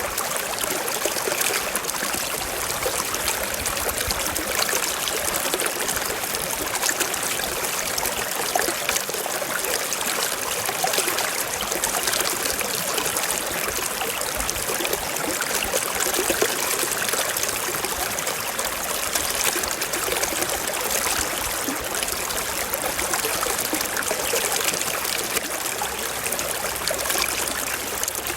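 Forest stream flowing and trickling over rocks, a steady rush of water.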